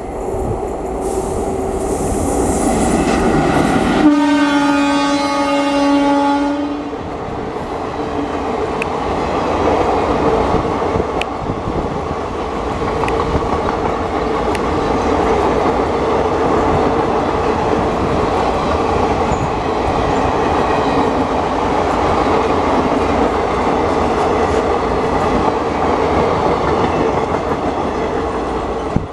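Indian Railways WAP-4 electric locomotive hauling a passenger train past. The train approaches with a steady rumble, the locomotive sounds one steady horn blast of about three seconds about four seconds in, and then the coaches roll by with wheels clattering over the rail joints.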